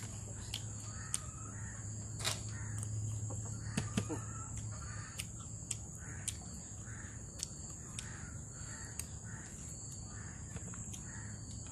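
A bird calling in a long series of short, harsh, evenly spaced notes, about two a second, over a steady high-pitched drone, with a few sharp clicks.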